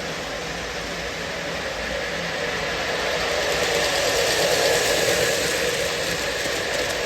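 O scale Lionel Lion Chief model train, two Dash 8 diesel locomotives pulling tank cars, running steadily on the track with a continuous rumbling hum. It grows louder around four to five seconds in and eases slightly near the end.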